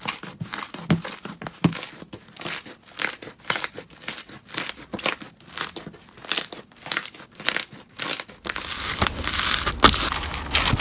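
Slime being squeezed and poked by hand, giving a rapid run of sticky crackles and pops. About eight seconds in it changes to a denser, steadier crunching, typical of crunchy slime.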